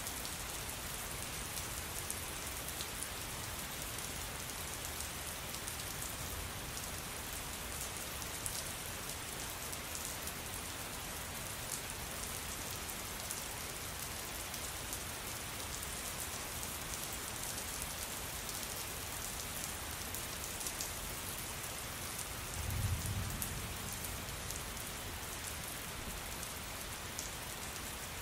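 Steady rain falling on a surface, an even hiss with fine drop ticks. A brief low rumble rises and fades about three-quarters of the way through.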